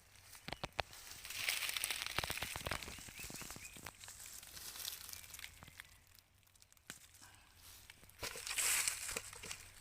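Rustling and crackling of leaves and plants being brushed or handled, with a scatter of sharp clicks. The rustling swells about a second in, fades in the middle, and comes back briefly near the end.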